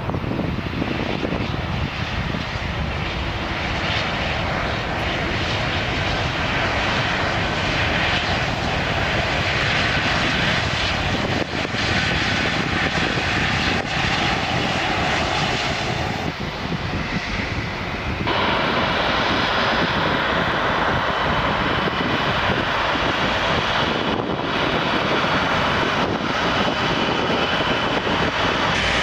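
Airbus A330-300's two Rolls-Royce Trent 772B-60 turbofans running during the landing, a steady rushing jet noise that turns brighter and a little louder about two-thirds of the way through.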